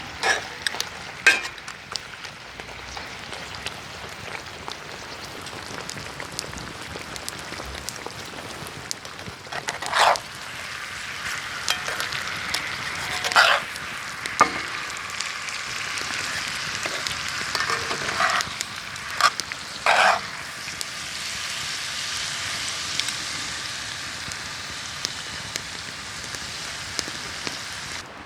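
Food sizzling in a pan over a campfire: a steady hiss broken by several sharp pops.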